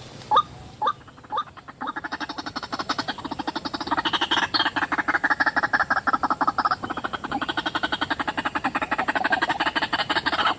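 White-breasted waterhen calling: a few separate rising notes about two a second, then from about two seconds in a fast, rapid run of croaking notes that grows louder.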